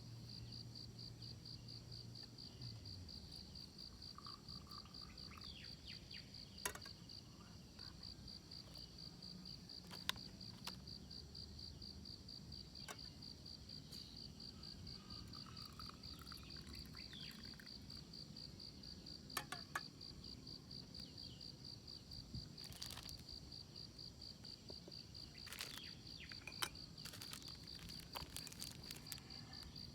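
Insects trilling steadily with a fast, even pulse, with a few sharp clicks scattered through.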